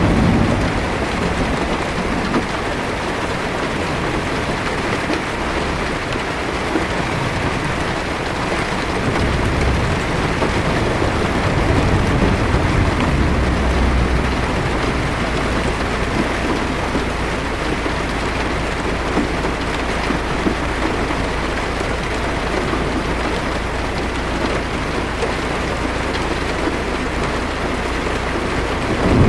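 Heavy rain steadily pattering on a car's roof and windshield, heard from inside the cabin, with a low thunder rumble swelling in the middle.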